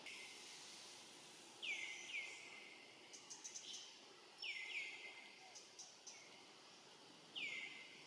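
A forest bird calling in short, down-slurred whistled notes: a pair, another pair, then a single note near the end, with brief high ticking between them over a faint background hiss.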